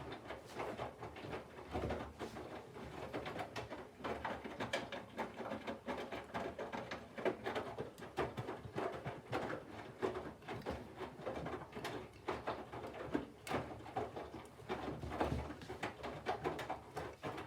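Candy front-loading washing machine drum turning during the cold-water phase of the wash: wet laundry tumbling and sloshing, with irregular soft knocks and splashes.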